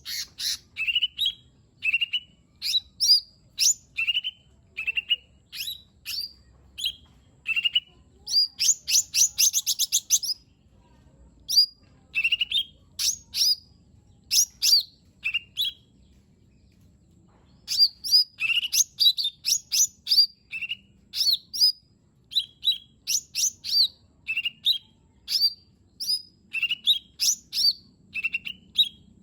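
Cucak ijo mini (lesser green leafbird) singing a rapid run of short, sharp whistled notes that sweep up and down, with a fast trill about nine seconds in and a pause of under two seconds near the middle.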